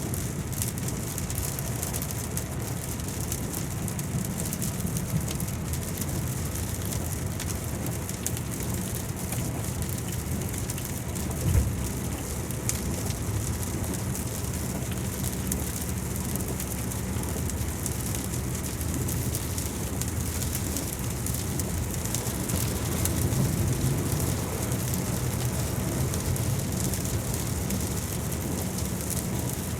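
Steady rain falling, with a constant patter of drops over a low rumble, and one brief low thump partway through.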